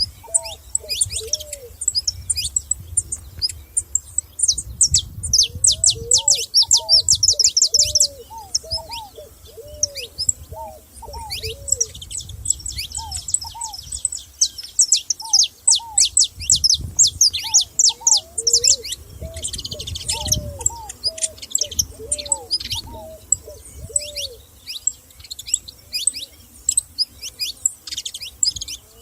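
Several wild songbirds singing together: many rapid, high chirps and trills that come in dense runs, over a lower, repeated arching call note.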